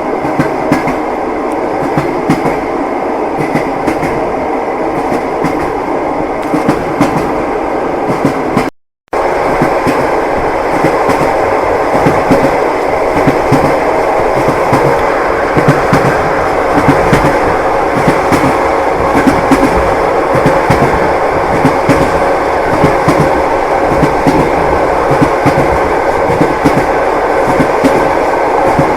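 Train wheels clacking over rail joints, with the steady rumble of a moving railway carriage. About nine seconds in the sound cuts out completely for under a second, then resumes slightly louder.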